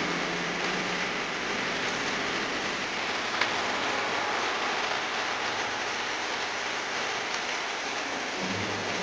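Heavy rain falling steadily, an even hiss, with one sharper tap about three seconds in.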